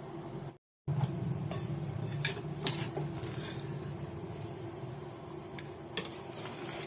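A few light clicks and scrapes of a serving spoon against a biryani pot over a faint steady hum; the sound cuts out completely for a moment about half a second in.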